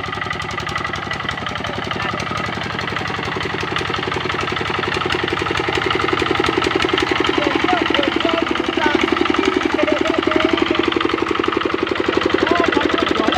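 Kubota RD65 single-cylinder diesel engine of a hand tractor running steadily with a fast, even chug of firing pulses, growing gradually louder.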